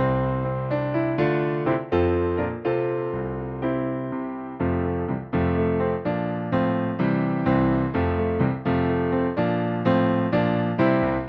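Solo piano music: a steady run of struck chords, each starting sharply and fading before the next.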